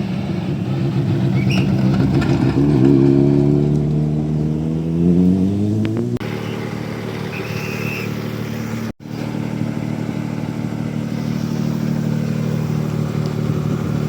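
Rally car engine climbing steadily in pitch under acceleration, then dropping suddenly about six seconds in and holding at a steady pitch. The sound cuts out briefly about nine seconds in.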